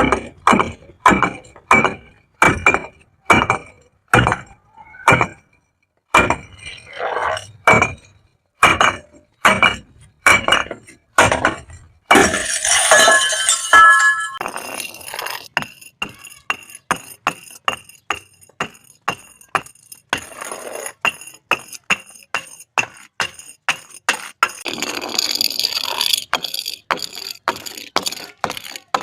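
Glass bottles breaking and clinking in a long run of sharp smashes, about two a second at first. About twelve seconds in comes a dense two-second crash, then quicker, lighter clinks with a ringing tone.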